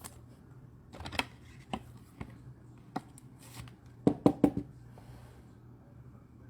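Trading cards being handled by hand: a scatter of light clicks and taps, with a brief swish about three and a half seconds in and a quick run of clicks just after four seconds.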